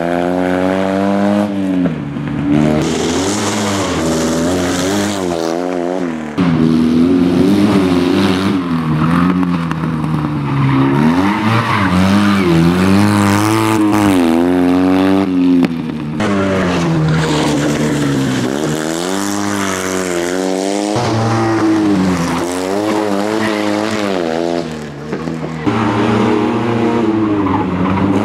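Fiat 126p rally car's air-cooled two-cylinder engine revving hard, climbing and dropping in pitch again and again as the car is driven flat out through the turns, with tyres squealing at times as it slides.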